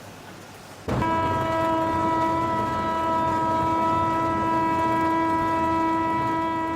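Steam locomotive whistle sounding one long, steady blast that starts abruptly about a second in, signalling the train's approach to the station.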